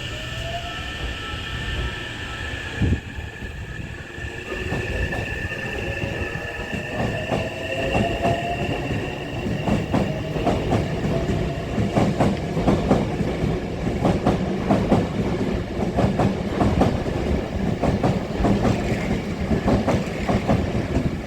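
Hankyu 9000 series electric train pulling out of the station. Its traction motor whine rises in pitch as it picks up speed. The wheels clack over rail joints, the clacks coming faster and louder as the train accelerates, with one sharp knock about three seconds in.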